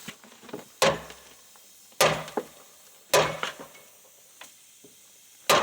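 Hammer striking metal four times, roughly a second apart, each blow followed by a short ring, as rivets are knocked loose on an old truck.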